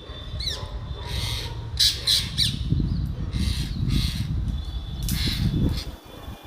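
Parrots squawking: a few short chirps, then about six harsh squawks at uneven intervals. A steady low rumble runs underneath and drops away near the end.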